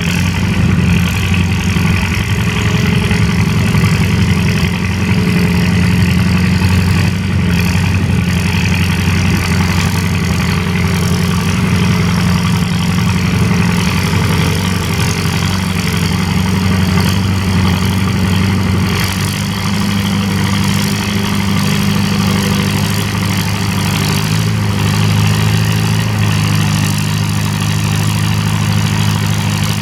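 Antique farm tractor engine running steadily, its pitch shifting slightly about nineteen seconds in.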